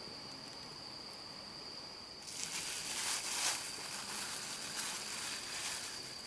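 A steady high-pitched insect trill, joined about two seconds in by a louder crackling hiss.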